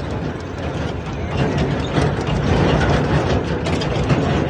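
Tractor engine running steadily with a rapid, even pulse.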